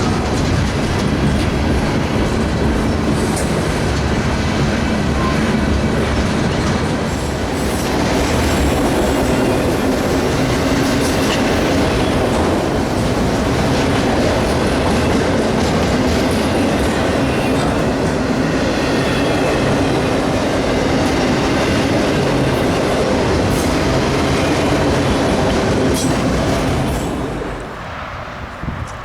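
Freight cars of a Union Pacific mixed freight train rolling past at steady loudness. The sound falls away sharply near the end as the train clears.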